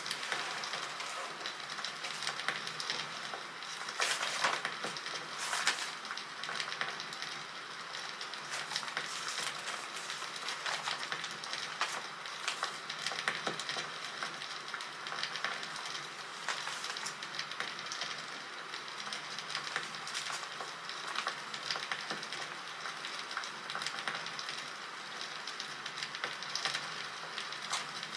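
Recorded campfire crackling: a steady hiss of small crackles with sharper pops of burning wood now and then, the loudest around four and five and a half seconds in.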